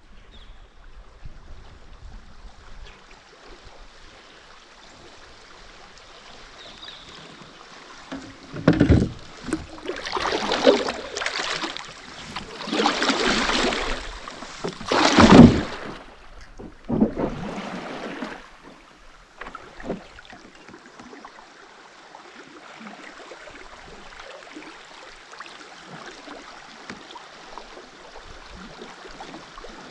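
Kayak on the water: a run of loud splashing swishes, one every second or two, in the middle, over a faint steady water hiss.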